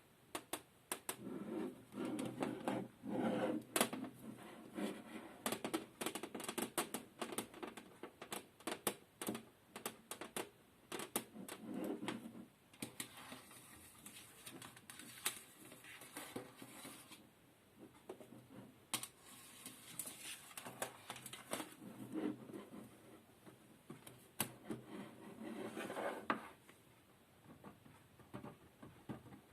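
Close-miked ASMR trigger sounds: quick, irregular tapping and clicking on a small hard object, with stretches of scratching or rustling now and then.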